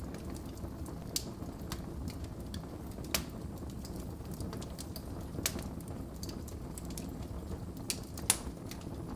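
Wood fire burning in a fireplace, with a steady low rumble and sharp, irregular crackles and pops, the loudest about three seconds in, midway and near the end.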